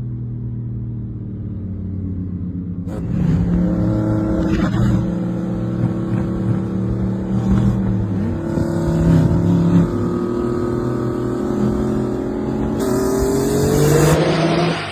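Car engine running at a steady pitch, then revving up with a rising pitch about thirteen seconds in.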